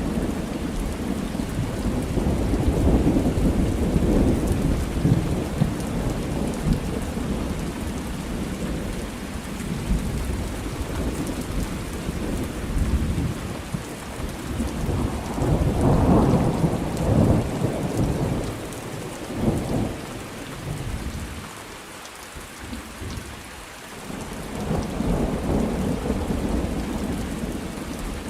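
Thunderstorm with steady rain and rolling thunder: low rumbles swell and fade several times over the constant hiss of the rain, easing into a brief lull about three-quarters of the way through before building again.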